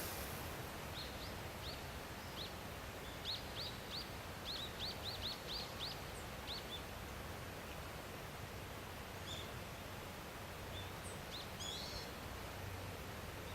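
Daurian redstart calling: a run of short, thin, upward-sliding call notes for the first several seconds, then a few more scattered ones later, over a steady background hiss.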